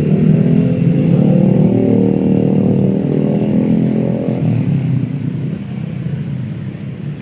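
Motorcycle engine passing close by, loudest over the first four seconds and then fading, over steady street traffic.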